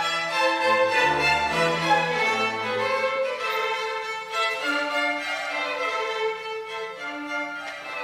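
Violin playing a melody of held notes over a lower sustained accompaniment.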